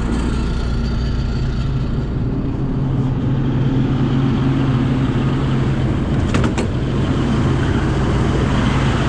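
A tracked excavator's John Deere diesel engine running at a steady idle, with a couple of brief clicks about six and a half seconds in.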